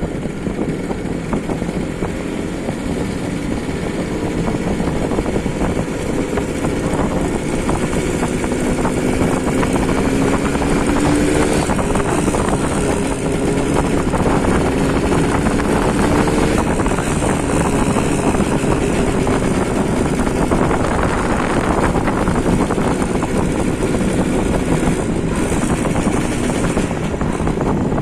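MZ ETZ 150's two-stroke single-cylinder engine running, getting louder over the first ten seconds. Its pitch climbs slowly twice in the first half.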